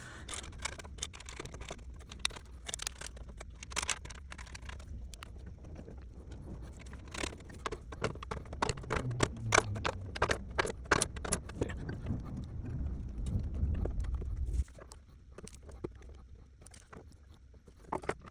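Irregular clicks and light knocks of tools and metal parts being handled while the fuel pump assembly is fitted back into a motorcycle gas tank, over a low steady hum that cuts off suddenly about fifteen seconds in.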